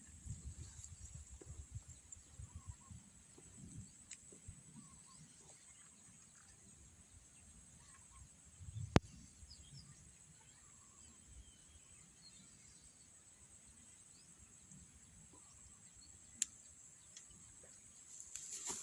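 Quiet outdoor ambience at a fishing spot: a steady high insect drone with faint bird chirps, low rumbling in the first few seconds, and two sharp clicks, the louder about nine seconds in and a smaller one near the end.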